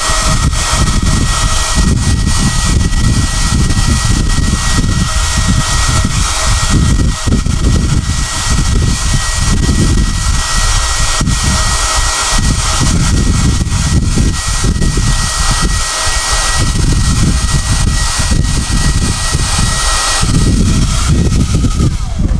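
SOUNATE high-airflow hair dryer blowing, a loud steady rush of air with a thin high whine and an uneven low rumble. The whine drops out about twenty seconds in while the rush of air goes on.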